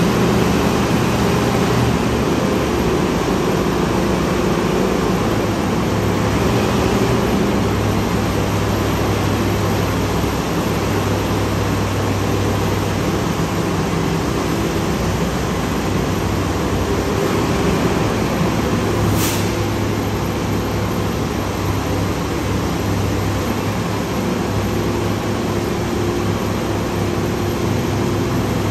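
Garbage truck's diesel engine running steadily at low speed while the truck is manoeuvred, its low hum rising and falling a little. A single sharp click about two-thirds of the way through.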